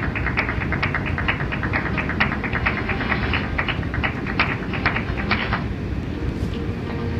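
Train rolling with a steady low rumble and rapid, irregular clicking, several clicks a second. The clicking stops about five and a half seconds in while the rumble goes on.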